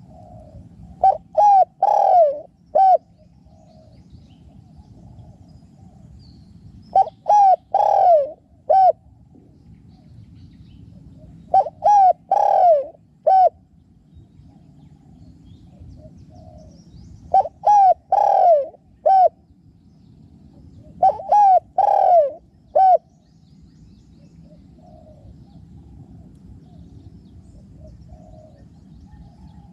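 Spotted dove cooing: five loud phrases of four or five coos each, a few seconds apart, with fainter cooing in between.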